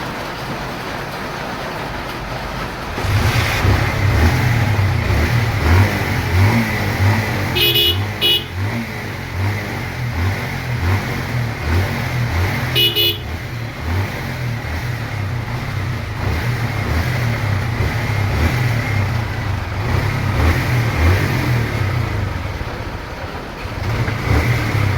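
A motorcycle engine starts running a few seconds in with an uneven low throb. A horn gives two short beeps several seconds apart.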